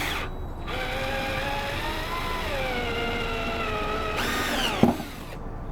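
Power drill driving a deck screw into a loose deck board. The motor whine rises in pitch, then drops and holds as the screw bites in. Near the end comes a short burst of noise and one sharp knock.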